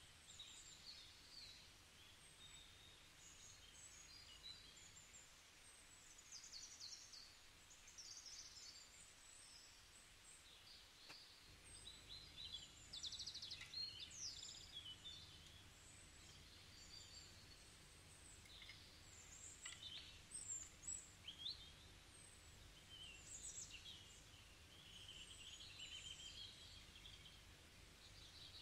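Faint birdsong: small birds chirping and trilling on and off, high-pitched, over a faint low hum.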